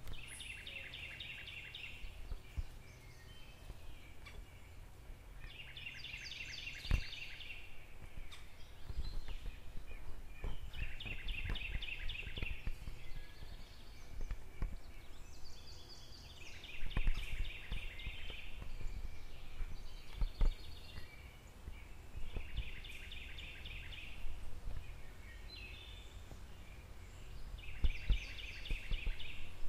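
A songbird sings a short, rapid trilled song about every five to six seconds, six times in all. Under it runs a low outdoor rumble with a few dull thumps.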